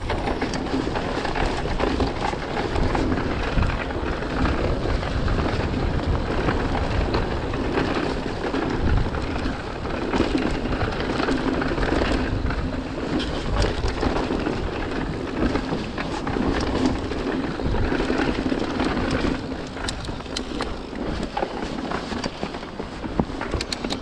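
Mountain bike riding down a wet, rough trail: tyres rumbling and spraying, the bike rattling over roots and rocks, with wind buffeting the camera microphone.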